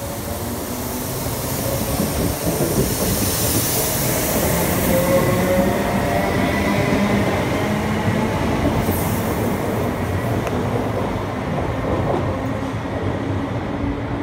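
Electric passenger train running along the platform: a steady rumble of wheels on rail and traction noise that grows louder over the first few seconds and then holds, with a faint thin squeal in the middle.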